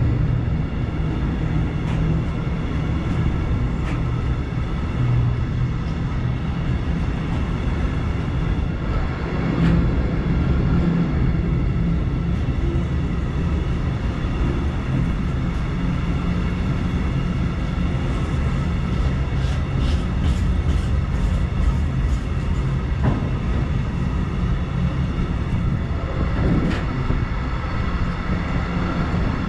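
Freight train of open-top coal wagons rolling past: a steady rumble of steel wheels on the rails with occasional sharp clicks, and a quick run of clicks about twenty seconds in.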